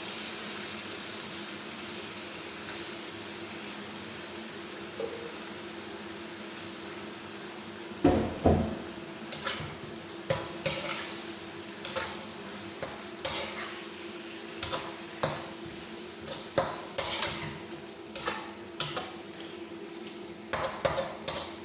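Food cooking in a pan with a steady low hiss, then from about eight seconds in a metal utensil stirring and tossing the food, clanking and scraping against the pan about once or twice a second.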